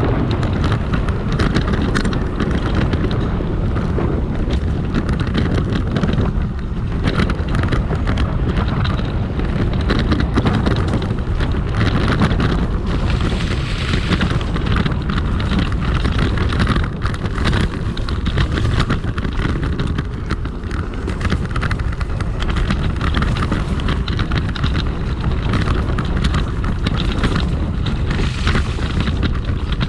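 Wind buffeting the microphone while a dual-motor electric scooter is ridden off-road, over a steady low rumble from its tyres on rough ground, with scattered crackles and bumps and a couple of stronger gusts of hiss.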